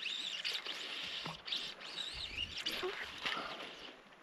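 Bird song: a run of high, arching whistled notes, one after another, that dies away a little under three seconds in.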